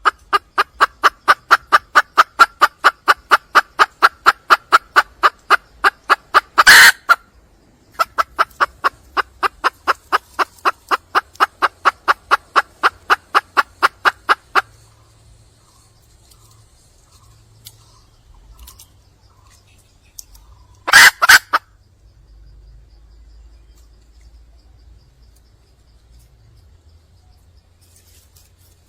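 Red junglefowl (wild hen) calling to attract a cock: two long runs of quick, evenly spaced clucks, about four a second, each ending in a louder, harsher note. After that it goes quiet apart from one more short, loud call about two-thirds of the way through.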